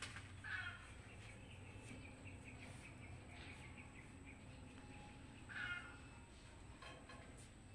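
A domestic cat meowing twice: two short meows about five seconds apart, over a faint steady background.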